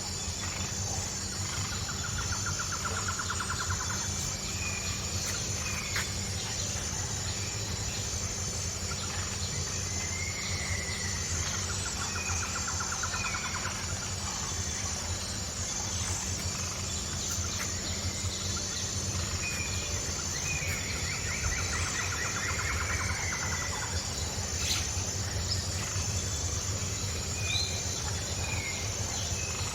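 Outdoor nature sound: a steady high insect buzz with birds calling now and then in short trills and chirps, over a low steady rumble.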